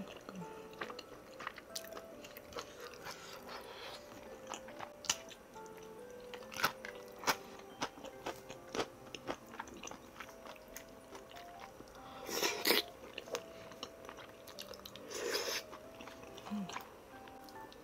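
Close-miked eating sounds of spicy tteokbokki: many small clicks of biting and chewing, with two longer, louder noisy mouth sounds past the middle, over quiet background music with held notes.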